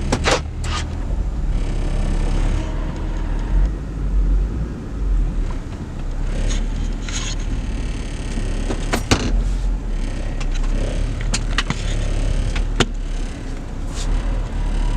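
Steady low rumble of a car, with several sharp clicks and knocks scattered through it.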